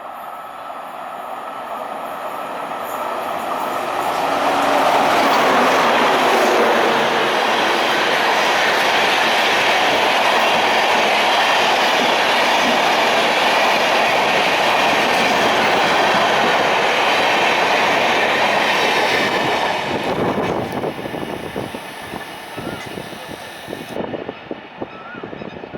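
Gatimaan Express, an electric-locomotive-hauled semi-high-speed train, running into the station at speed. Its loud rush builds over the first few seconds, holds, then falls away about twenty seconds in into separate wheel clacks over rail joints as the train slows under heavy braking.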